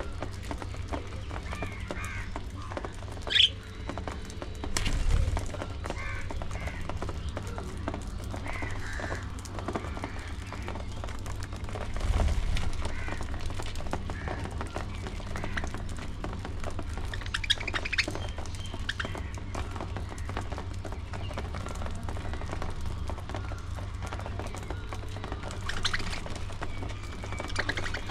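Budgerigars chattering and chirping in an aviary colony, with one sharp louder call a few seconds in, over a steady low rumble and a couple of dull thuds.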